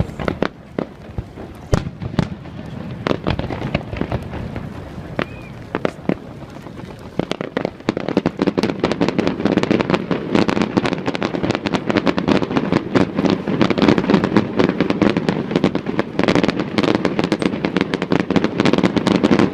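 Fireworks display: scattered single bangs for the first several seconds, then, about seven seconds in, a dense, rapid crackle of many bursts that keeps up.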